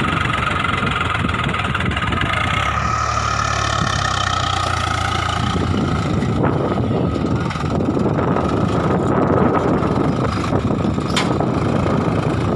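Swaraj 744 tractor's three-cylinder diesel engine running steadily; about five and a half seconds in it turns rougher and louder, and a single sharp click sounds near the end.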